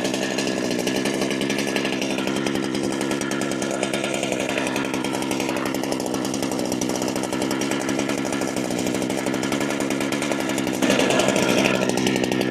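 Holzfforma G395xp chainsaw, a 90cc two-stroke Husqvarna 395XP clone, idling steadily on its first run. It gets louder about eleven seconds in.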